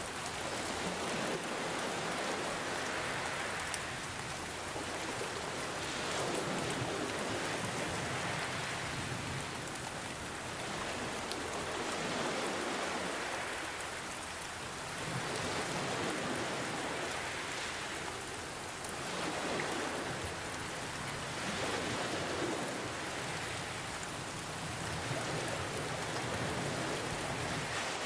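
Steady rain mixed with ocean waves. The hiss of the rain swells and eases about every three seconds as the waves wash in and draw back.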